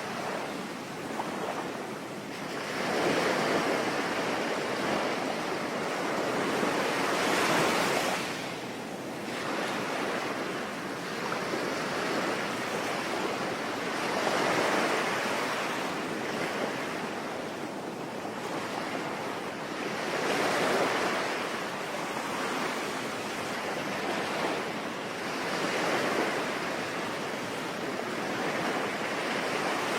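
Sea waves surging and washing back in slow swells about every five to six seconds, over a continuous hiss.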